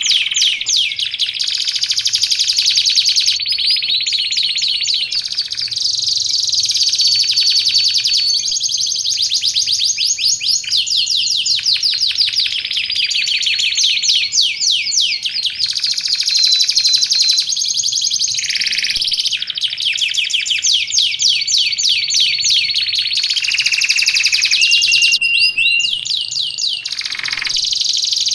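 Domestic canary singing continuously in a long, fast song of rapid rolling trills and repeated chips, with some held whistled notes and some falling notes.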